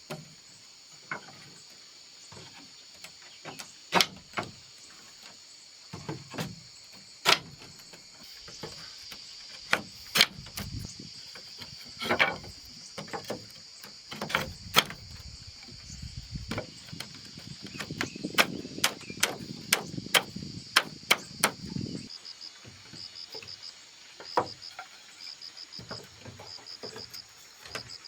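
Irregular knocks and clacks of handling or working with hard objects. Under them runs a steady high insect drone, and from about two-thirds of the way in, rhythmic insect chirps pulse.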